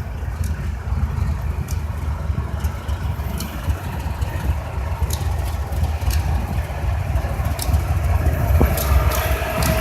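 Low, steady rumble of a diesel freight locomotive approaching, with scattered sharp clicks; a steady whine comes in near the end.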